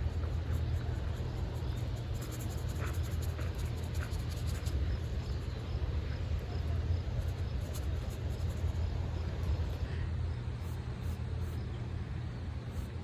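Wind buffeting a phone's microphone outdoors, a steady low rumble, with faint scattered light ticks over it.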